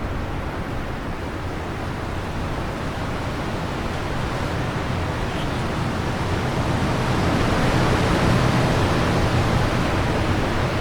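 Wind blowing in a steady rush that slowly builds to a stronger gust about eight seconds in.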